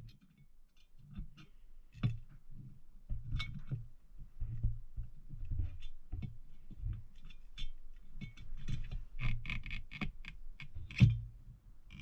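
Light metal clicks and knocks of carburetor parts being handled and fitted as the top cover goes back onto a Corvair carburetor during its rebuild, with one sharper knock about eleven seconds in.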